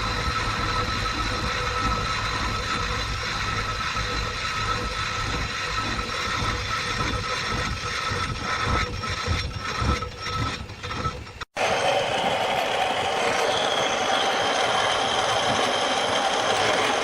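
Workshop machinery running steadily with a mechanical whine. About eleven and a half seconds in it cuts off abruptly and a different steady machine noise begins.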